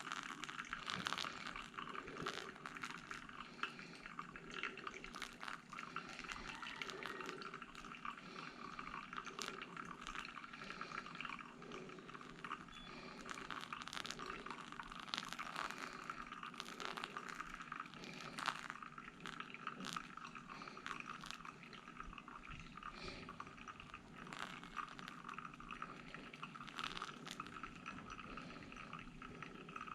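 Faint liquid trickling and dripping, with small irregular drips throughout: pour-over coffee draining through the dripper.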